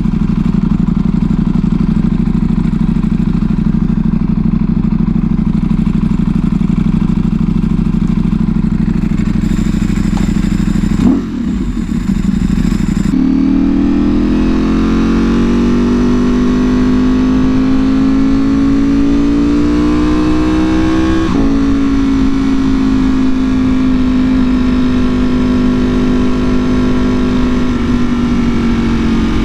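Ducati Panigale V4R's V4 engine through an Akrapovic full exhaust, under way. It holds a steady note, dips briefly, then steps up and climbs steadily for several seconds before the pitch drops suddenly with a gear change and settles back to a steady note.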